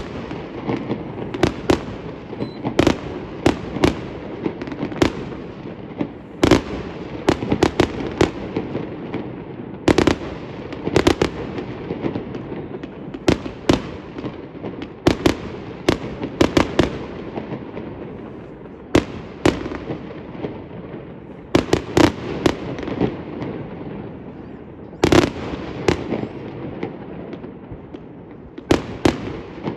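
Fireworks display: many sharp bangs in irregular quick clusters, over a constant din of further bangs and crackle between them.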